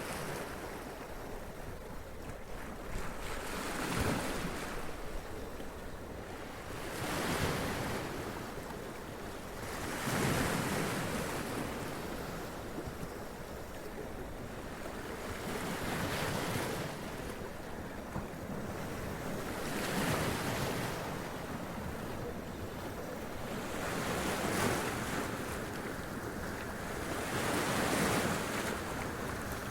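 Sea waves washing up onto rocks and splashing, in surges every three to four seconds over a constant surf wash.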